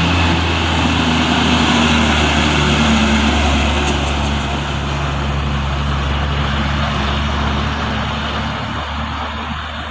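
A loaded Hino truck's diesel engine pulls hard as it passes close by, with a strong, low, steady engine note over road noise. It fades as the truck moves away near the end.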